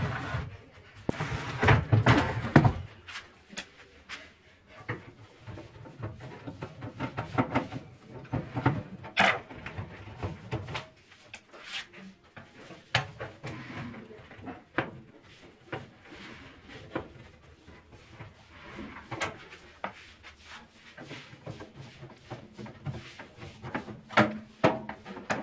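Irregular clicks, knocks and rattles of a Dawlance microwave oven's casing and parts being handled while it is taken apart, louder and busier in the first few seconds.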